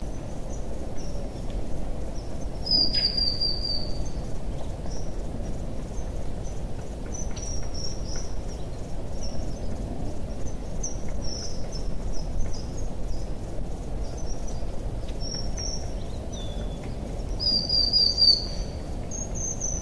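Birds calling with scattered short high chirps and two brighter descending trills, about three seconds in and near the end, over a steady low rumble.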